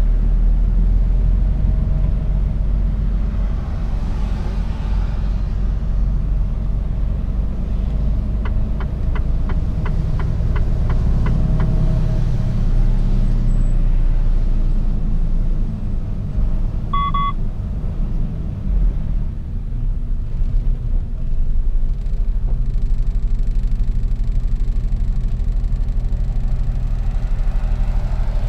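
Mercedes-Benz Actros truck running on the road, a steady low rumble heard from inside the cab. Partway through there is a run of quick, even ticks, about two and a half a second, and later one short beep.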